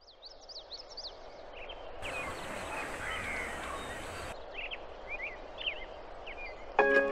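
Small birds chirping in quick, high, short calls over a soft outdoor background hiss, which thickens for about two seconds in the middle. Near the end, music with plucked notes and a regular tick starts.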